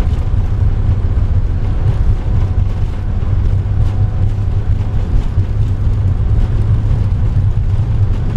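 Boeing 747-8 accelerating down the runway at takeoff thrust, heard from the cockpit as a steady, loud low rumble with a few faint steady tones above it.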